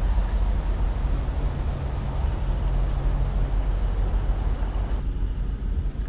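Steady city street noise: a low rumble of traffic with an even hiss over it.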